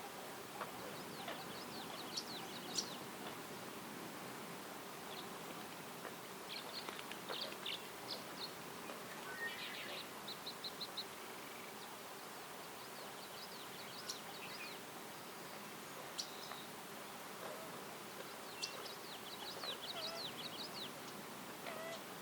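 Several songbirds chirping and trilling in short bursts every few seconds, one giving a quick run of evenly spaced notes near the middle, over a steady even background hiss.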